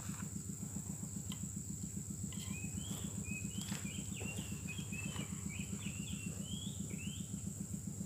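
A bird giving a quick run of short whistled chirps from about two to seven seconds in, over a steady high insect drone. A low hum pulses rapidly underneath.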